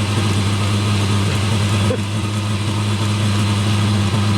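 Eberspacher D1L diesel air heater running, a steady hum and rush from its blower fan and burner just after relighting itself; it is burning badly and fogging out smoke.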